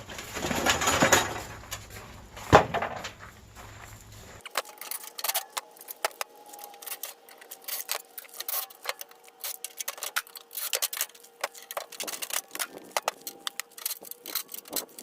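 Metal clattering and knocking as scrap air conditioner parts are worked apart, with one hard bang about two and a half seconds in. Then, after an abrupt change, a quieter stretch of many small ticks over a faint steady hum.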